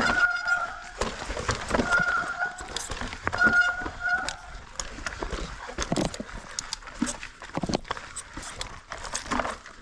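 Mountain bike disc brakes squealing in short bursts, about three times in the first half, over the rattle and knocks of the bike on a rough trail.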